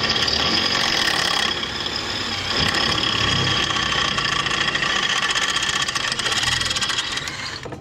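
Power drill running under load, drilling out a steel rivet that holds a stock brake line to a UTV trailing arm; it runs steadily and stops near the end.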